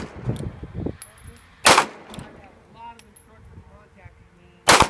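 Two single pistol shots about three seconds apart, from a Ruger LCP .380 ACP fired at slow, deliberate pace.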